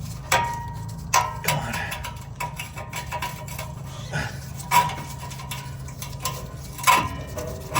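Metal exhaust pipe section being worked and pried loose from the joint, giving irregular clanks and knocks, some with a short ring, about six in all, over a steady low hum.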